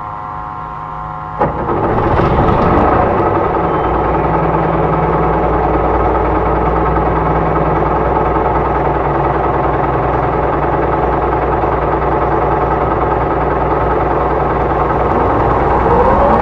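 Hyundai Blue City low-floor bus's G240 engine and electric drive motor running: a steady idle with a high whine, a sharp click about a second and a half in, then louder steady running with a low hum. Near the end a whine rises in pitch as the drive picks up.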